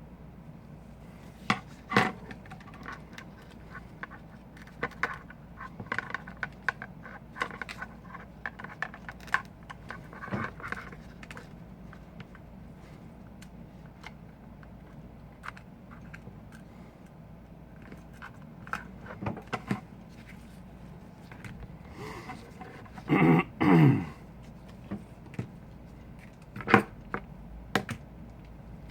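Small hand tools clicking, tapping and scraping against iPhone 5 parts during a repair, in scattered irregular strokes. About two-thirds in comes a louder rasping scrape that drops in pitch, and a sharp click follows a few seconds later.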